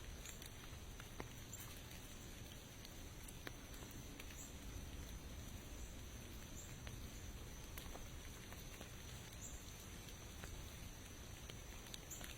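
Light rain pattering, with scattered single drops ticking. A faint high chirp repeats about every two seconds.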